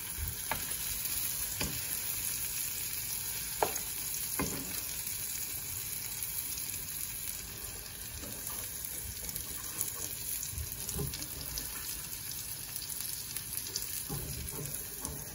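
Egg and corned beef omelette sizzling steadily in a frying pan on low heat. A spatula scrapes and taps against the pan a few times as the omelette is worked loose and turned over.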